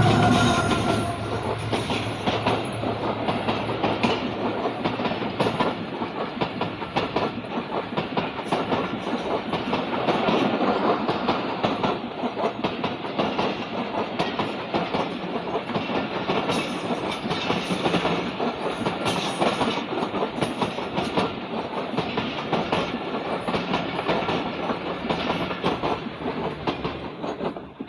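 Passenger express train running through a station at speed, its coaches' wheels clattering steadily over the rail joints. The tail of the locomotive's horn fades out in the first second, and the clatter drops away near the end as the last coach passes.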